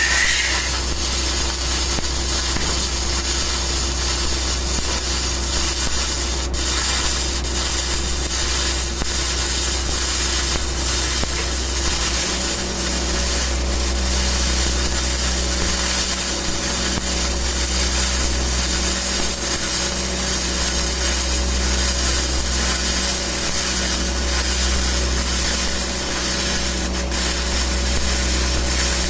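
Stick-welding arc of an E7010 cellulosic electrode crackling and hissing steadily during a downhill root pass on pipe, over a steady low hum.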